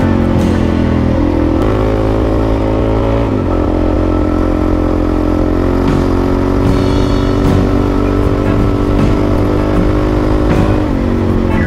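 Dirt bike engine running on the move, its pitch stepping up and down a few times as the revs change.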